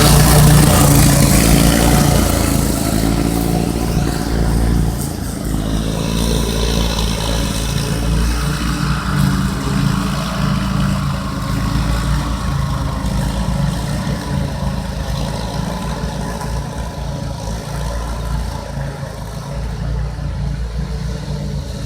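A dune buggy runs while towing a field mower, with a steady engine drone. It is loudest in the first few seconds, then settles to a slightly lower, even level.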